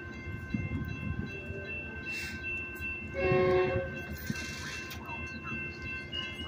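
Metrolink commuter train standing at the platform with a steady low rumble. About three seconds in comes a short horn-like tone lasting under a second, with brief hisses of air around it.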